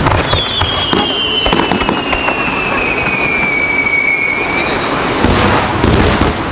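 Starmine fireworks barrage: rapid bangs and crackling shell bursts, with one long whistle that falls slowly in pitch for about four seconds.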